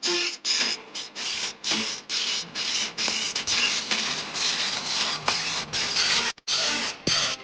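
Steel knife blade being worked with an abrasive, filed or ground by hand in even back-and-forth rasping strokes, about two to three a second, with a brief pause near the end.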